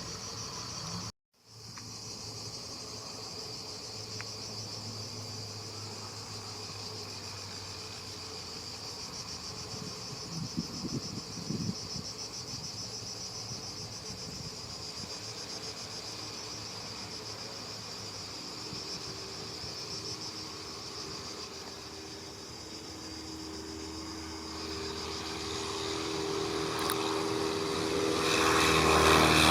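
Insects chirring steadily in a high, rapidly pulsing drone. In the second half a propeller aircraft engine comes in and grows steadily louder toward the end.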